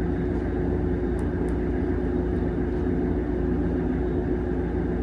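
A steady mechanical hum with several held low tones, unchanging throughout.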